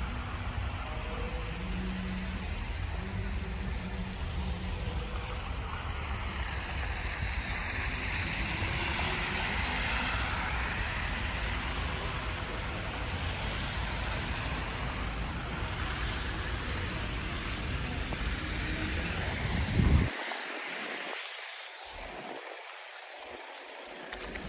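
City street noise in a snowstorm: a steady rush of passing traffic, with wind rumbling on the microphone. About twenty seconds in there is a sharp thump, after which the low rumble drops away and the sound grows quieter.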